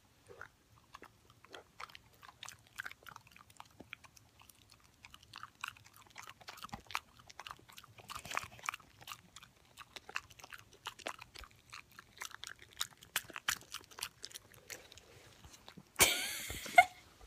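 Border collie mix puppy smacking his mouth: a run of quick, irregular wet clicks that grow busier as it goes on. A brief, louder noisy burst comes near the end.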